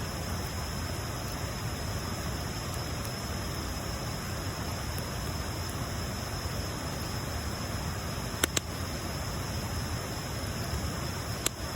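Wood bonfire burning with a steady hiss, popping sharply twice in quick succession about two-thirds through and once more near the end.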